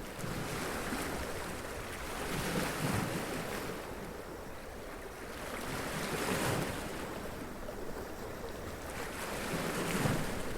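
Sea waves washing up onto rocks and splashing, swelling and ebbing about every three to four seconds.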